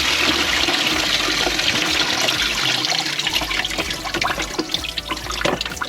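Backed-up sink water gushing out of a clogged garbage disposal's disconnected drain pipe into a bucket, easing off in the second half into trickles and drips.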